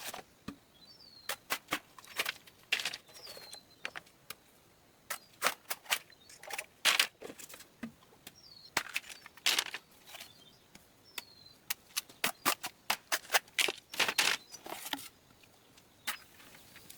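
Irregular sharp knocks and taps, some in quick runs and others spaced out, with a short bird chirp repeating every few seconds.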